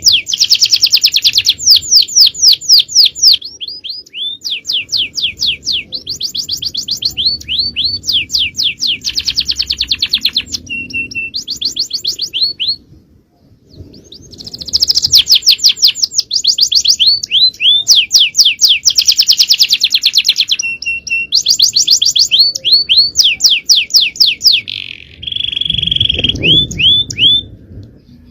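Male domestic canary singing long, loud phrases of fast repeated trills of sweeping notes, broken by a short pause about halfway and a briefer held note near the end.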